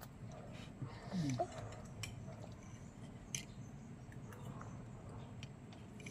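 Quiet eating sounds: chewing and small scattered clicks of utensils and food. A brief rising vocal sound comes about a second in.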